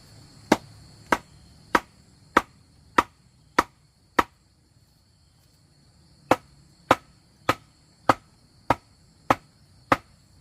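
Two runs of seven sharp, evenly spaced blows of a hand tool on wood, a little more than half a second apart, with a pause of about two seconds between the runs.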